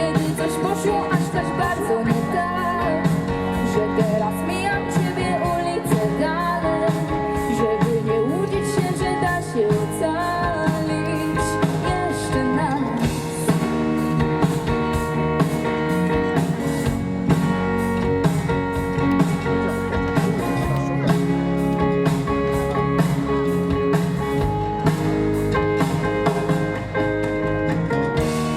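Live rock band playing a song: drum kit with a steady beat under guitars and a melody line.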